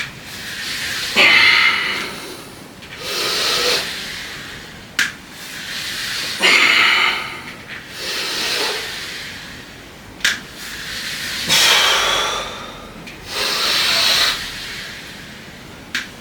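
A man breathing hard through a set of weight training, deep breaths about every two to three seconds, stronger ones alternating with weaker ones. Three short sharp clicks, likely equipment knocks, fall between the breaths.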